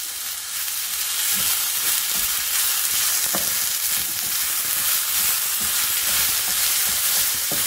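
Toasted rice, onion and crushed tomato sizzling in a hot stainless steel skillet as a wooden spoon stirs them, with a few light knocks of the spoon against the pan.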